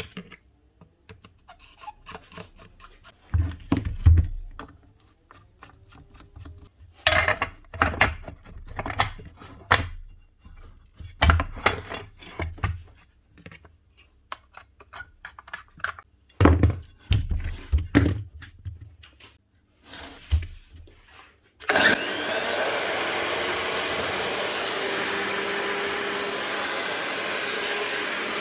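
Scattered knocks and clicks of the Makita GA9040 9-inch angle grinder being handled. About three-quarters of the way through, it is switched on, spins up quickly and runs at a steady speed.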